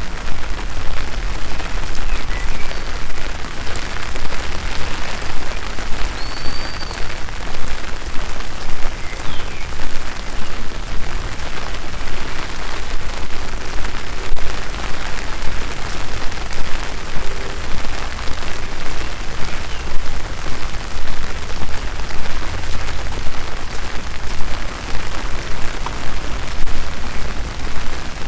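Steady rain falling, a dense even hiss of patter, with a low rumble underneath.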